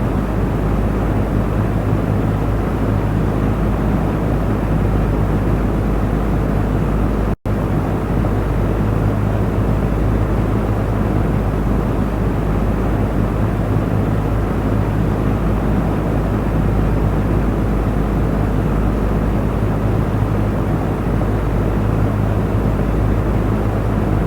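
Electric fan running steadily: a constant whoosh of moving air over a low motor hum. A split-second dropout about a third of the way through briefly cuts the sound.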